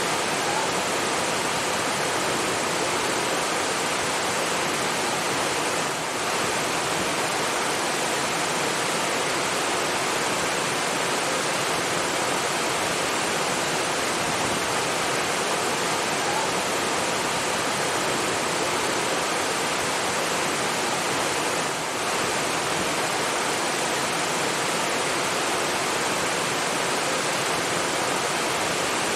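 Steady rushing water, a dense even hiss like a waterfall or fast stream, dipping briefly twice.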